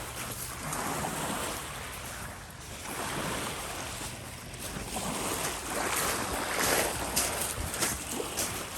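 Small lake waves washing on the shore, a rushing noise that swells and fades every couple of seconds, with a few sharp crunches near the end.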